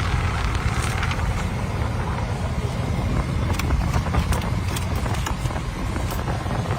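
Steady road and engine rumble of a car driving, heard from a dashcam, with several short sharp clicks in the middle.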